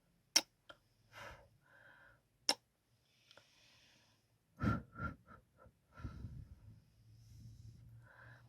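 ASMR kissing and mouth sounds: sharp lip smacks and soft breaths, with a quick run of four or five kisses about five seconds in.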